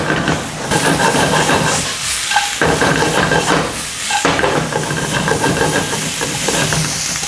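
Pork belly, sliced onion and bean sprouts sizzling in a frying pan over a high gas flame, stirred and tossed with chopsticks.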